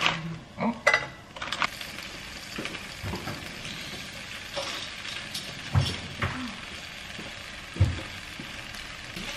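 Pork dumplings sizzling as they pan-fry in oil in a skillet, a steady hiss, with a few short thumps and clicks, the strongest about a second in, near six seconds and near eight seconds.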